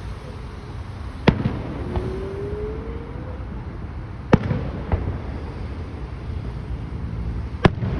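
Fireworks shells bursting in the sky: sharp booms about a second in, about four seconds in and near the end, with a smaller pop just under five seconds in. A faint rising whistle runs from about two seconds to three and a half seconds in.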